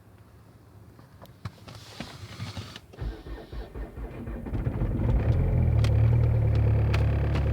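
Renault Mégane engine on a cold start: a few clicks, then the engine is cranked about three seconds in, catches, and settles into a steady idle.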